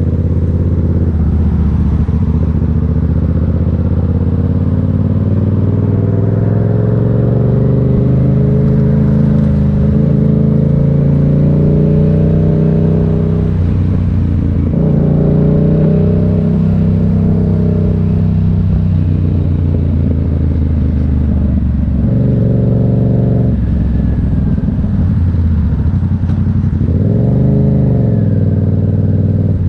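Motorcycle engine running while riding, its pitch rising and falling with throttle and gear changes, with a quick rev up and back down near the end.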